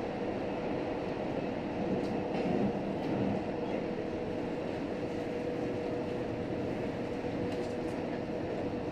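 JR Hokkaido H100 diesel-electric railcar running between stations, heard from inside the passenger cabin: a steady rumble of wheels on rail with a constant hum and a few faint clicks.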